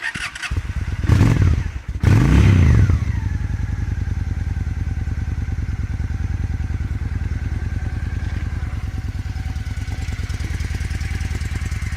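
2002 Honda Shadow ACE 750 V-twin cold-started with the choke out. It catches right away, revs up twice in quick surges in the first three seconds, then settles into a steady, fairly quiet idle through its 2-into-1 exhaust.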